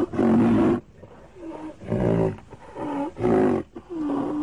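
A large wild animal giving a series of about six short, rough calls, each under a second long, with a longer held note near the end.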